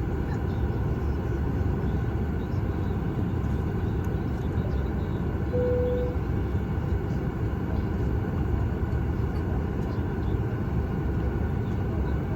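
Steady low rumble in the cabin of a Boeing 737 MAX 8 on the ground before takeoff, with one short steady tone about halfway through.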